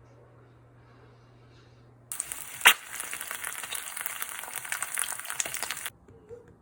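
Food sizzling and crackling in a hot frying pan, starting suddenly about two seconds in with a sharp click just after, and cutting off abruptly near the end.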